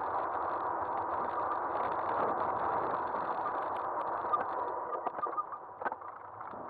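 Aostirmotor S17 e-bike riding along, heard from a camera mounted on the front of the bike: steady wind and rolling noise with a faint steady whine. It gets quieter about four seconds in, and a few sharp clicks and rattles follow near the end.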